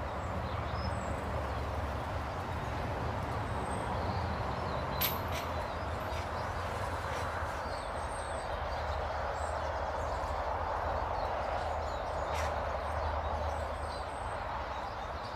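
Steady outdoor background noise over a low hum, with a few faint, short, high bird calls. Two sharp clicks land about five seconds in and again near twelve seconds.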